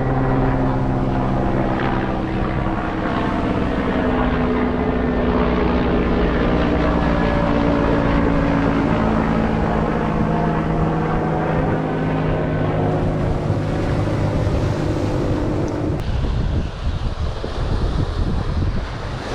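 A steady engine drone with several held pitches, over wind buffeting the microphone. The drone cuts off about three-quarters of the way through, leaving wind and surf.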